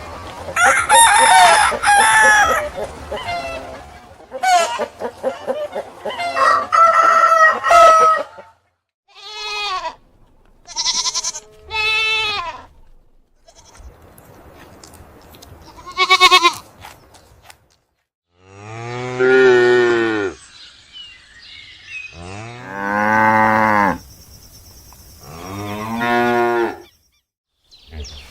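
A run of farm animal calls: a rooster crowing over the first several seconds, then a few shorter animal calls, then three long, low cow moos in the last ten seconds.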